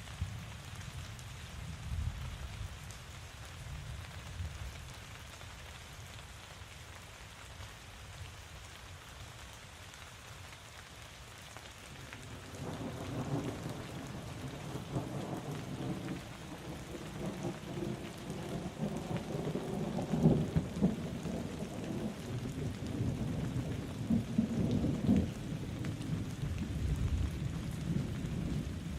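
Steady rain falling, joined about halfway through by a long, low roll of thunder that swells in waves, with its loudest peaks later on.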